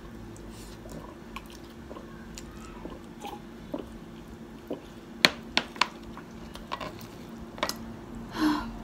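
Close-up eating sounds of Korean spicy fried chicken being bitten and chewed: wet, squishy mouth noises with scattered sharp clicks, a cluster of them about five to six seconds in, and a short louder sound near the end.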